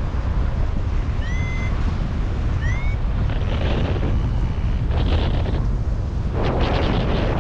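Wind buffeting the microphone with a steady low rumble, in strong wind on a paraglider flight. Two short rising chirps come about a second and two and a half seconds in, and gusty hissing surges follow in the second half.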